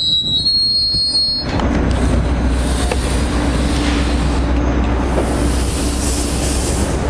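NJ Transit passenger train rolling past close by: a high-pitched wheel squeal for about the first second and a half, then the steady rumble and rush of the coaches going by.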